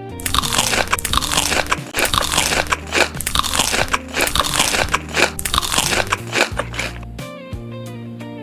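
Loud, close crunching of food being bitten and chewed, in a dense run of crisp crunches over background music. The crunching stops about seven seconds in, leaving the music.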